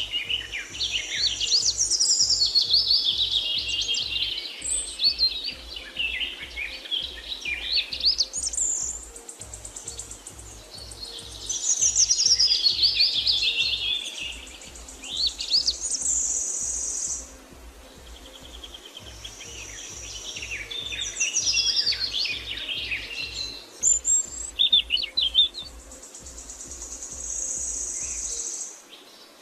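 Songbirds chirping and trilling in quick, repeated phrases, over a soft, low, evenly pulsing beat.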